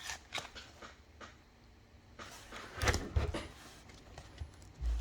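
Faint handling sounds of trading cards being flipped and sorted: light clicks and rustles, with a short louder patch of taps and rustling about three seconds in.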